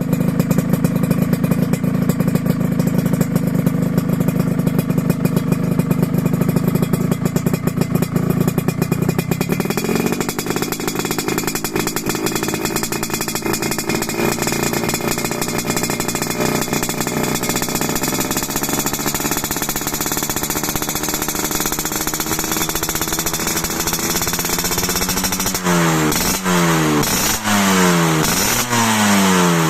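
Motorcycle engine breathing through an aftermarket 'kolong cobra' racing muffler. It idles steadily, then about ten seconds in is held at a higher engine speed that creeps up slowly, and near the end it is blipped in several quick revs.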